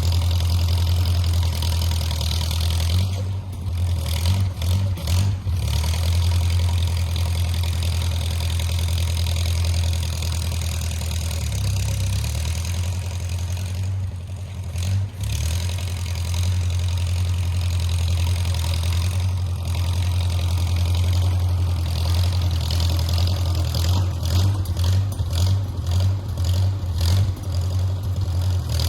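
Engine of a 1950s micro bulldozer running steadily at work for the whole stretch. The engine note wavers and dips briefly a few times.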